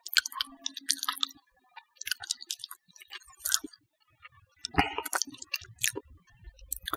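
Close-up eating sounds: quick wet mouth clicks and smacks of chewing, irregular and sharp. About five seconds in comes a louder knock as fingers touch the ceramic plate.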